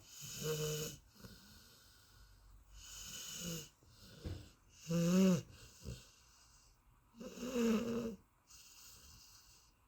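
Golden retriever snoring in deep sleep: four low, pitched snores roughly every two to three seconds, with softer breathing between them.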